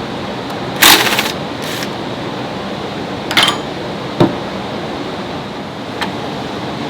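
Steady workshop machine noise, broken by short, loud hissing blasts about one and three and a half seconds in and a sharp knock just after four seconds.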